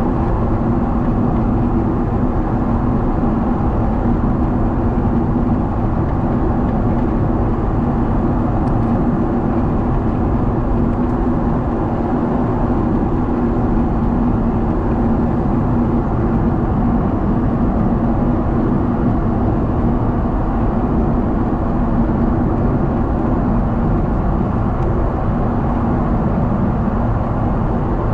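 Steady in-flight cabin noise of a Boeing 777: the engine and airflow roar, with a steady low hum running under it.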